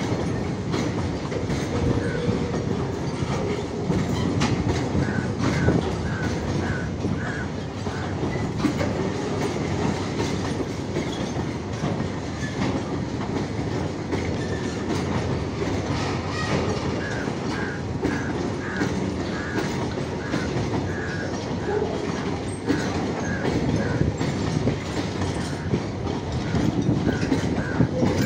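Freight train of bulk tank wagons rolling past. Its wheels clatter over the rail joints through a steady rumble, with several runs of a quick repeated high squeak.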